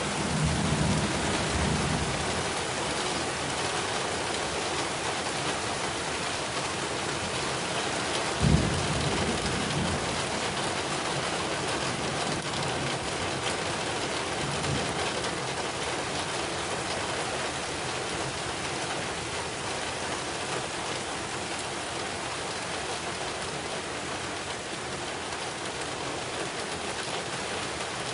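Heavy rain falling steadily in a dense, even hiss. Low rumbles come near the start, and a sudden low thud about eight seconds in rumbles away over a second or two.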